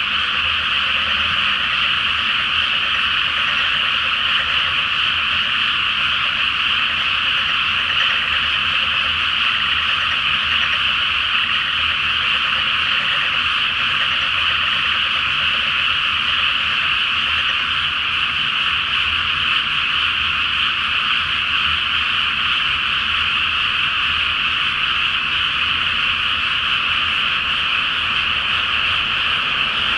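Large chorus of frogs in a flooded rice paddy, their many overlapping calls merging into one dense, steady, high-pitched churring that never lets up.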